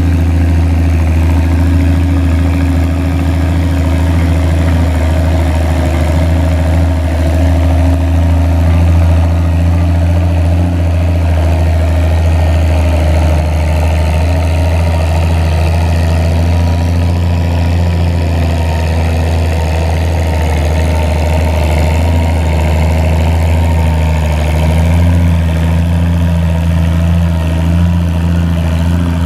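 Antique farm tractor engine running steadily and loudly at an even pitch.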